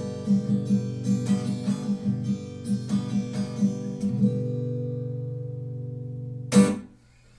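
Acoustic guitar strumming an instrumental outro at about three strums a second. A held final chord then rings and slowly fades. One last loud strum comes near the end and is damped abruptly.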